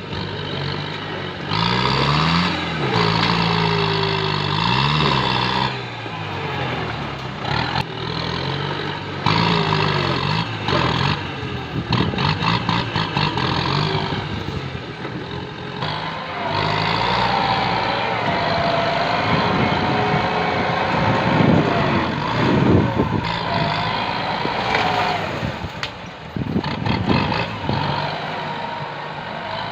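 Kubota M8540 tractor's diesel engine working hard, its pitch rising and falling again and again as it revs up and eases off, with bouts of harsher noise.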